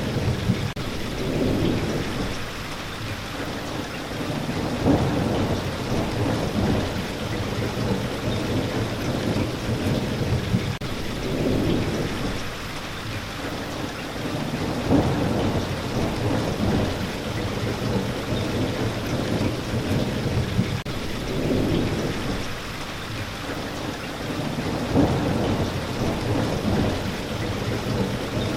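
Steady rain, an even hiss, with low rumbling swells that rise and fade every few seconds.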